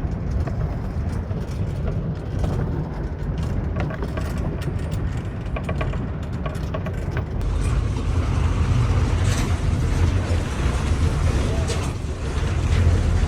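A motor vehicle running: a steady low engine rumble with rattling clicks, strongest in the first half, and voices underneath.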